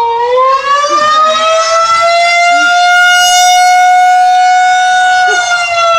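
Outdoor civil-defense tornado warning siren sounding loudly, one steady wailing tone that rises in pitch over the first second or two, holds, and eases down near the end. It is sounding a tornado warning.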